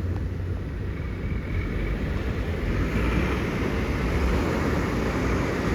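Ocean surf washing in, with wind rumbling on the microphone; the hiss of the water grows a little before halfway.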